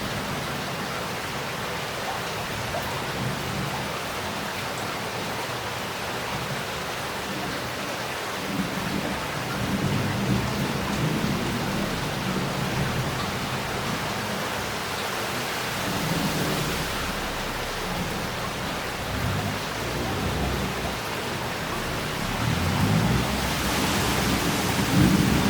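Heavy rain pouring and water running off roof tiles and the street, a steady hiss, with low thunder rolling in several times and swelling near the end.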